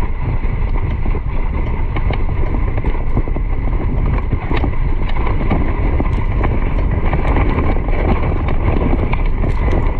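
Wind buffeting the microphone in a heavy, fluctuating low rumble, with scattered light knocks and clicks.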